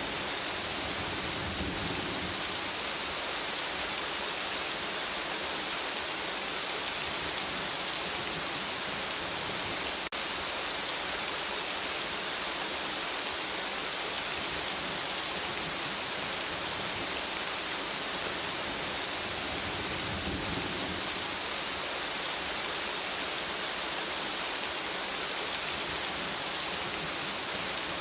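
Steady rain falling on forest foliage, an even hiss of countless drops. Two soft low rumbles swell up, about a second in and again about twenty seconds in.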